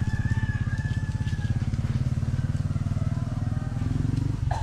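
A small engine running steadily, with a fast, even pulsing throb.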